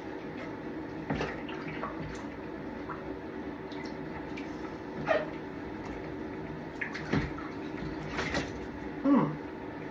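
Water sloshing and dripping in a wash tub as silkie chickens are bathed by hand, with a few short splashes, the loudest near the end. A steady low hum runs underneath.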